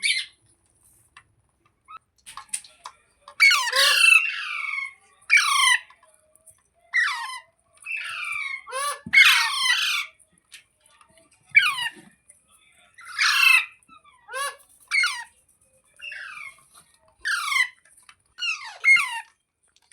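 Rose-ringed parakeet (Indian ringneck) giving a series of harsh screeching calls, each short and falling in pitch, repeated every second or two.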